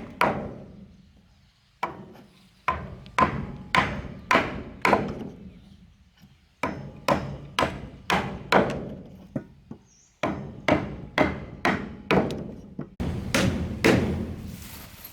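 A hammer striking wood repeatedly, about two blows a second, in runs broken by short pauses.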